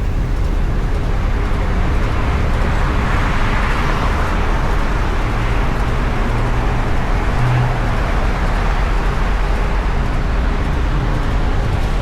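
Steady vehicle and traffic noise with a low engine hum, swelling a little a few seconds in.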